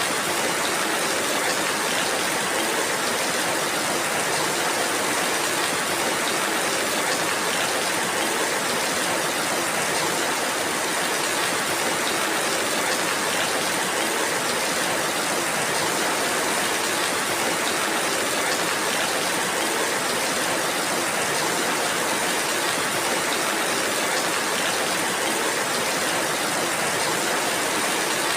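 Steady rainfall, an even hiss of rain with no individual drops or other events standing out.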